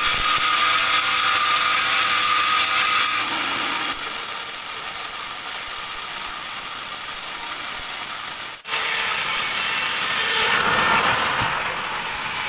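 Band sawmill blade cutting through a teak log: a steady, loud rasping hiss with a faint whine, broken off abruptly about eight and a half seconds in and picking up again with a different tone.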